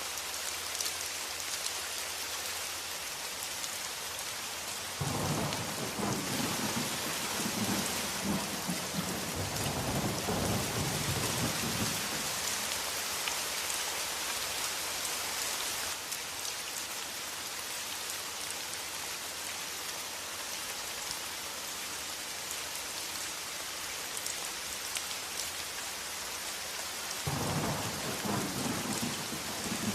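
Steady rain with rolling thunder: a long rumble about five seconds in that lasts several seconds, and another starting near the end.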